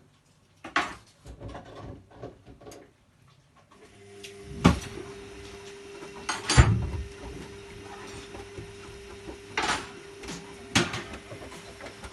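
A few light clicks, then a steady hum with a single held tone from about four seconds in, broken by four sharp knocks or thuds, the second the heaviest.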